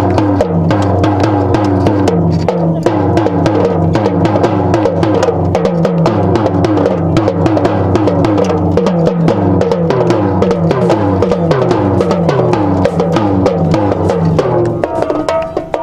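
Live music: fast, dense drumming with a pitched instrument playing a moving tune over it; the drumming thins out near the end.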